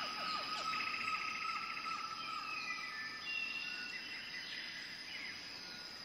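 Several small birds calling together: thin whistles and chirps, with a fast trill about a second in, over a steady high hum.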